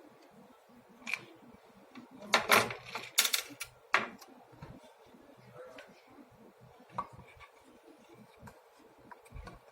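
Plastic front cover of a facial steamer being handled and fitted back onto its housing: a click about a second in, a cluster of loud clicks and knocks around two to four seconds in, then scattered light taps.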